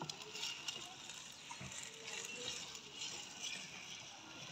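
Faint sizzling of onions and tomato paste frying in ghee in a clay pot, with a few light clicks of the stirring spoon against the pot.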